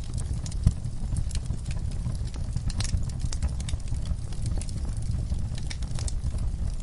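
Wood fire in a backyard fireplace crackling, with scattered, irregular snaps and one sharper pop under a second in, over a steady low rumble.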